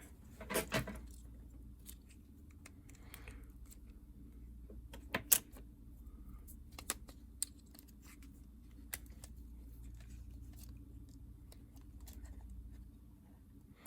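Scattered light clicks and clatter of a Nintendo DS Lite's plastic shell and small parts being handled, with a louder pair of clicks about five seconds in, over a steady low hum.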